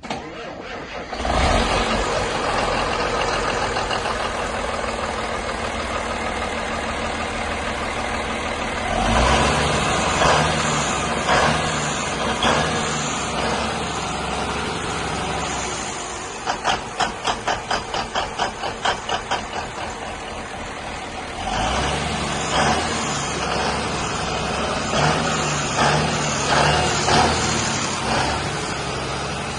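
Komatsu 375-5 heavy diesel engine starting up about a second in and running, then revved in bursts several times. In the middle comes a quick series of even pulses, about three or four a second.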